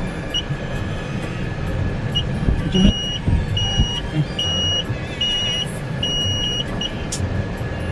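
Car wash entry keypad beeping: a few short single beeps as keys are pressed, then a run of five longer beeps in an even row, the keypad rejecting the entered car wash code. A car engine idles underneath.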